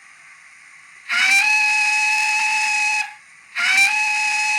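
Digitally sampled steam locomotive whistle from a Soundtraxx Econami UK Steam DCC sound decoder in a model locomotive, sounded twice, each a steady blast of about two seconds that starts with a slight upward bend in pitch. A soft, steady steam hiss from the decoder runs underneath.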